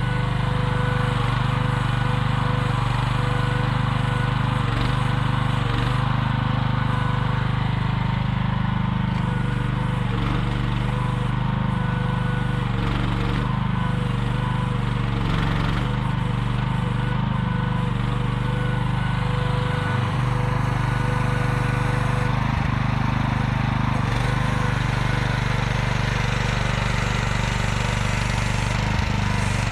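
AGT QH12R mini excavator engine running steadily under hydraulic load, with a thin whine over it that wavers and drops out about two-thirds of the way through.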